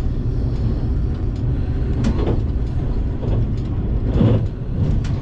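Running noise inside a JR Kyushu 787 series electric train car: a steady low rumble of wheels on rail, with a few faint clicks, as the train approaches a station stop.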